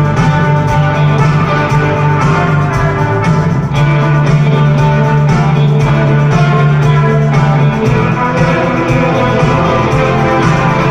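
Live rock music played by a symphony orchestra together with guitars, over a sustained bass line that shifts to new notes a few times.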